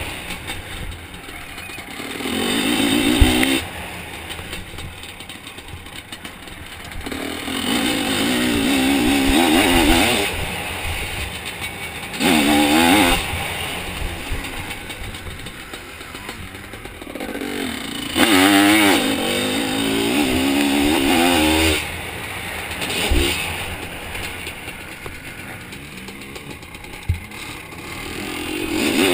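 Two-stroke Zabel 700 sidecar-motocross engine revving hard in repeated bursts as the throttle is opened and shut over the track. Between the bursts it drops to a rougher, quieter off-throttle sound. A couple of sharp knocks from the chassis land over the top.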